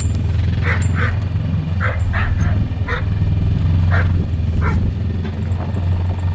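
A dog barking in short calls, about seven times in the first five seconds, over the steady low running of a four-wheeler's engine.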